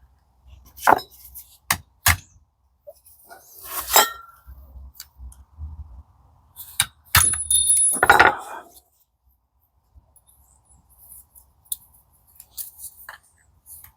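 Steel gearbox parts (gears, synchro and hub) clinking and knocking against each other as they are handled and fitted onto the shaft: a run of sharp clicks and knocks, the loudest about seven seconds in with a brief metallic ring, then quieter small taps.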